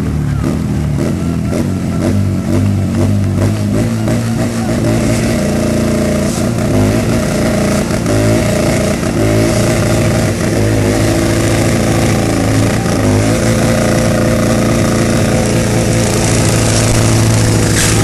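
Motorcycle engine revving up and down, then held at high, fairly steady revs.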